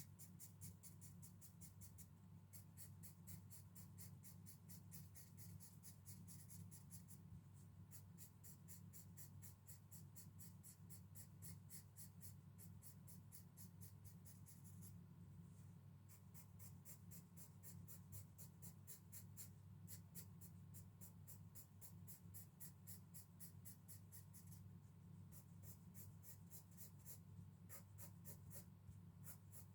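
Pencil shading on paper: quick, even back-and-forth scratching strokes, several a second, broken by a few short pauses.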